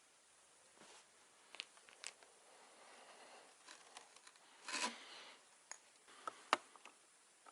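Hands handling computer parts and tools at close range: scattered light clicks and taps, a brief rustling scrape about five seconds in, and one sharp click a little later.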